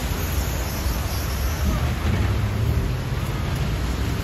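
Steady rushing noise of heavy rain and running floodwater, over the low rumble of a city bus engine idling.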